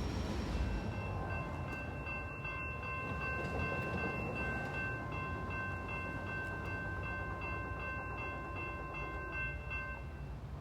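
Norfolk Southern locomotive air horn sounding one long, steady chord over the low rumble of the train, cutting off near the end.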